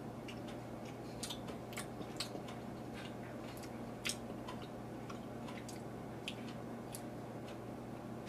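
A person chewing a jelly bean with the mouth closed: faint, irregular small clicks of the mouth and teeth working on the sticky candy.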